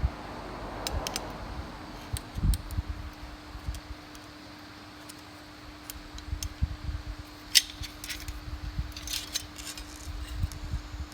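Scattered light clicks, taps and low knocks of hand work on parts, over a steady electric hum.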